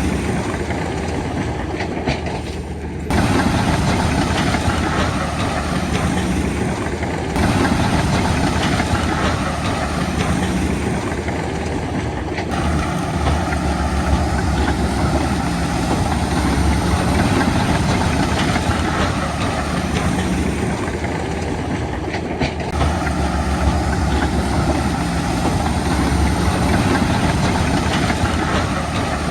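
Heavy earthmoving machinery's diesel engine running steadily with a low drone; the sound changes abruptly several times, about 3, 7, 12 and 22 seconds in.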